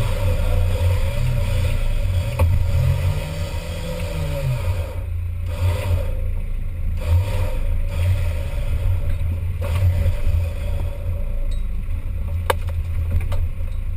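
Off-road 4x4's engine running under load, its pitch rising and falling in the first few seconds as it is revved, with scraping and a couple of sharp knocks.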